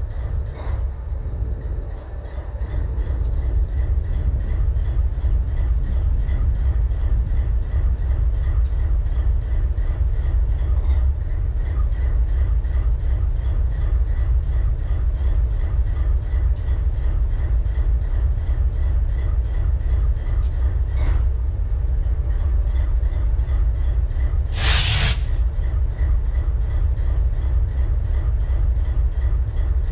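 Diesel locomotive engine of BNSF 4583 idling with a misfire: a steady low rumble with a fast, even pulsing. About 25 seconds in, a short loud burst of hiss cuts in and stops.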